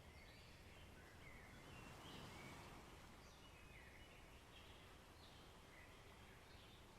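Faint birdsong in a forest: short chirping notes, roughly one a second, over a soft, steady low background noise.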